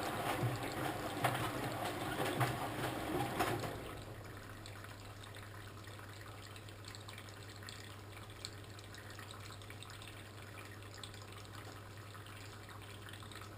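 Old washing machine mid-cycle: water sloshing and trickling inside it for about the first three and a half seconds, then dropping to a quieter steady hiss over a constant low hum.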